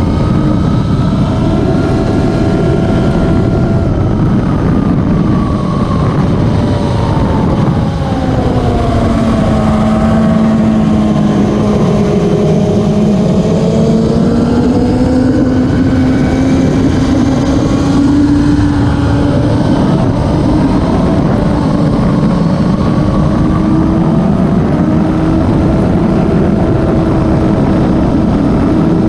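Racing motorcycle engines running on a circuit, their pitch sliding down over the first ten seconds or so, then climbing slowly again.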